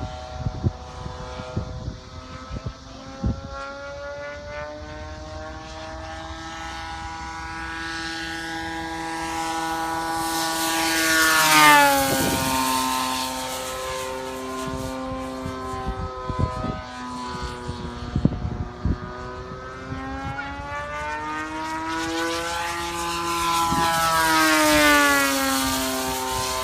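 DLA-64 i2 twin-cylinder gasoline engine of a large radio-controlled MiG-3 model plane, turning a 23x10 propeller in flight. Its note swells and drops in pitch as the plane passes close by, once about twelve seconds in and again near the end.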